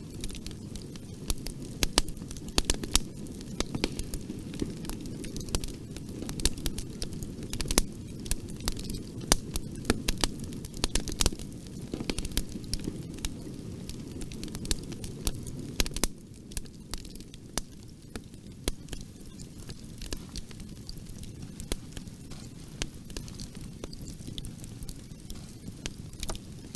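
Wood fire crackling in a fireplace: frequent sharp pops and snaps over a steady low rumble of flames. The pops grow sparser and quieter a little past halfway.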